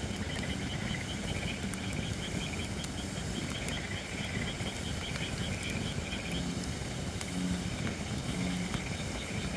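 Holly firewood burning and crackling, with scattered sharp pops. Behind it, frogs call: a rapid high pulsing trill, and in the second half short low croaks about once a second, typical of bullfrogs.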